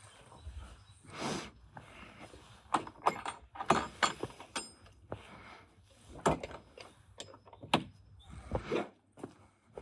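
Irregular knocks, clicks and scrapes of tools and metal parts being handled during car repair work, with a quick cluster of sharp clinks a few seconds in and single louder knocks near the end.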